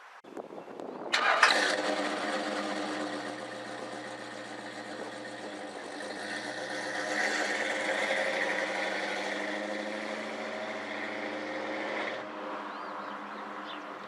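A vehicle engine starting about a second in, then running steadily at an even pitch, a little louder midway, and dropping away near the end.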